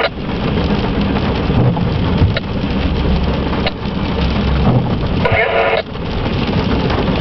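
Empty intermodal freight cars rushing past at speed: a steady rumble and rattle of steel wheels on rail, with a few sharp clicks as wheels pass over rail joints, heard through the glass of a car window.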